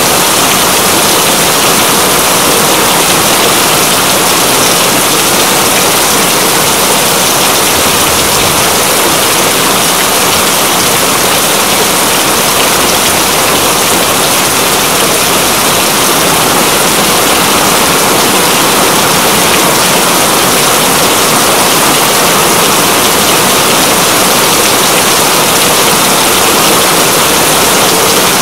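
Steady heavy rain, a dense even hiss of falling drops with no let-up.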